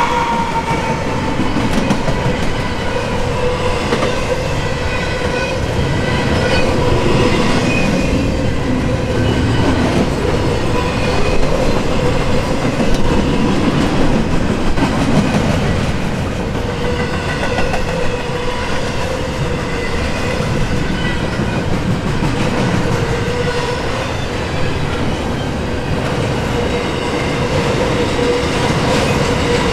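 Double-stack intermodal container well cars of a freight train rolling steadily past, steel wheels running on the rails, with a steady ringing tone underneath throughout.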